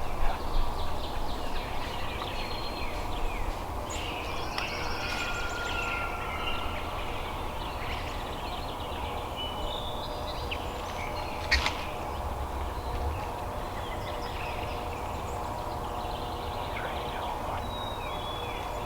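Woodland ambience: songbirds chirping and calling in short high notes throughout, over a steady low background rumble. A single sharp click comes about eleven and a half seconds in.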